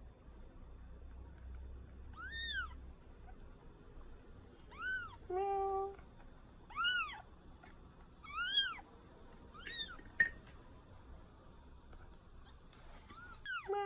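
A week-old kitten mewing repeatedly: about seven short, high, thin mews that rise and fall in pitch, with a single sharp click a little after the middle.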